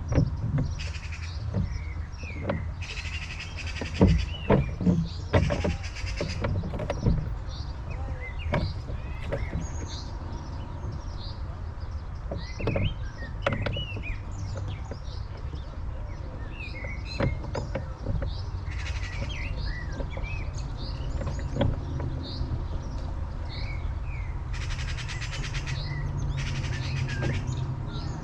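Several birds singing, with many short chirps and some buzzy trills throughout, over a steady low wind rumble on the microphone. A cluster of sharp knocks comes about four to seven seconds in.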